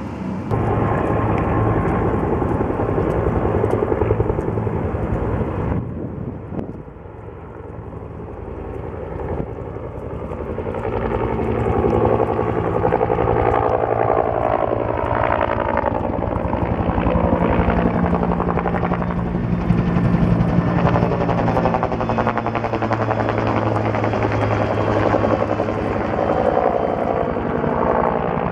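Firefighting helicopter's rotor beating steadily. It drops away briefly about six seconds in, then grows louder again from about ten seconds on, its pitch sliding slowly as a helicopter comes near.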